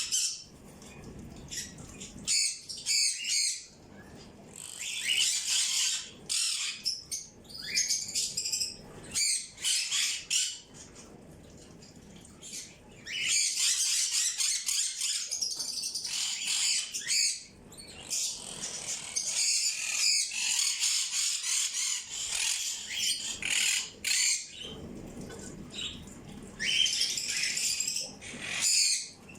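A group of small birds chirping and chattering in quick high bursts, thickening into long stretches of continuous twittering in the middle.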